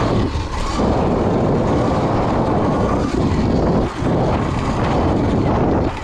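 Dirt bike ridden along a trail. Its motor runs under heavy wind rush on the microphone, easing briefly a few times.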